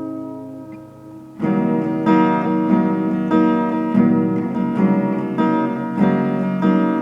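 Guitar music: a held chord rings and dies away, then about a second and a half in, new plucked notes and chords start up in a steady, repeating pattern.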